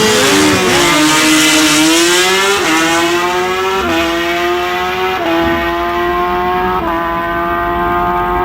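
Drag-racing motorcycle accelerating hard through the gears, its engine note climbing and dropping back at each of four upshifts.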